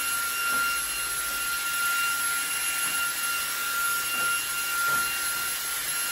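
eufy HomeVac H30 Mate cordless handheld vacuum running steadily, with a high, even motor whine over rushing air. It is sucking dust off a return-air vent grille through its brush attachment.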